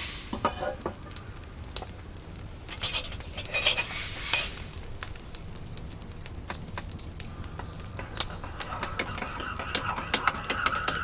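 Scattered light clinks and knocks, like utensils or dishes being handled, with short bursts of rustling noise a few seconds in and a faint steady tone toward the end.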